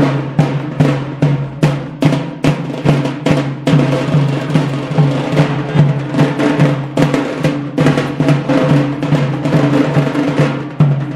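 Music with a fast, even drum beat over a steady low drone.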